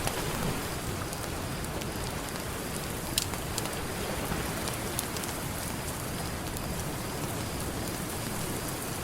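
Campfire crackling, with a few sharp pops and snaps of burning wood over a steady wash of ocean surf.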